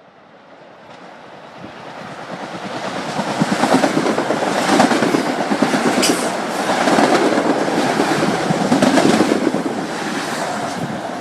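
Long Island Rail Road train approaching and passing, growing louder over the first few seconds and staying loud, with the wheels clattering over the rail joints.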